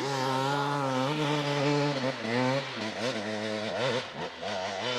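Off-road motorcycle engine running close by, held at steady revs for about two seconds, then revving up and down several times.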